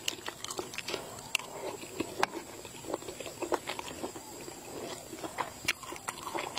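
Close-up wet mouth sounds of a person chewing soft balut (fertilized duck egg) in spicy sauce: lip-smacking and sticky clicks of the mouth, several a second.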